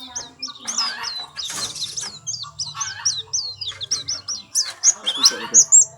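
White-eye singing a long, rapid, unbroken string of high chirping notes. A lower, rougher call comes in underneath near the end.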